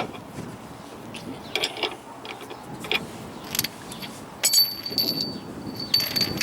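Metal hand tools clinking and clanking: sockets and a ratchet being handled, with a few sharper metallic knocks.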